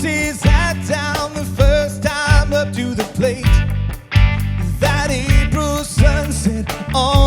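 Rock band performing a song: a lead vocal sung with vibrato over drum kit and band. There is a brief break in the sound just before the fourth second.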